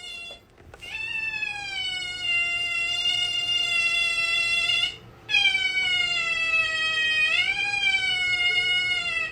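A pet's long, drawn-out, siren-like calls: a short one at the start, then two steady calls of about four seconds each, the second dipping and then rising in pitch near its end.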